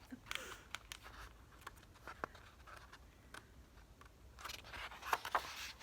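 Faint paper rustling and small clicks as a picture book's pages are handled and turned, louder about four and a half seconds in.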